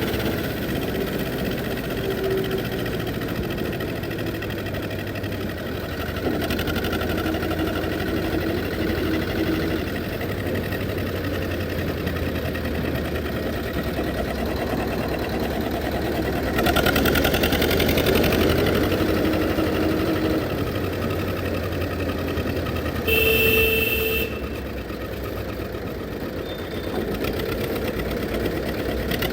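Old Zetor tractor's diesel engine running steadily, getting louder for a few seconds just past halfway. A short high-pitched tone, the loudest sound, cuts in briefly near the end.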